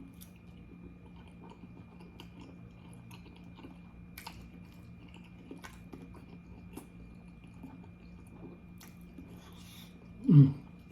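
A person chewing and biting pizza roll casserole close to the microphone, with faint wet clicks throughout. Near the end comes one short, loud vocal sound that falls in pitch.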